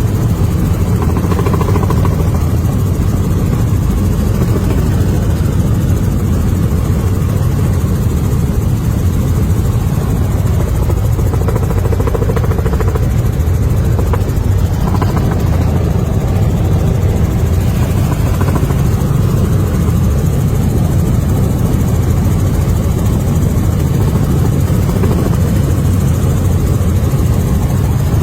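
Helicopter in flight: steady, loud rotor and engine drone, heaviest in the low end, unbroken throughout.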